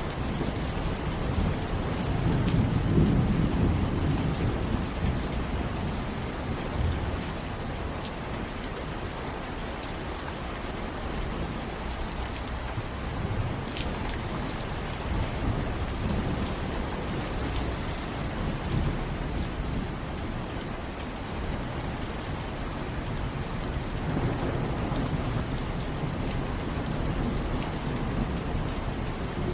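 Steady rain with a fine patter of drops, under low rolling thunder that swells a few seconds in and again near the end.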